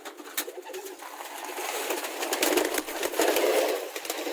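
Pigeon feed being poured out: a rustling rattle of grain that swells over a couple of seconds, with a few sharp clicks in the first second.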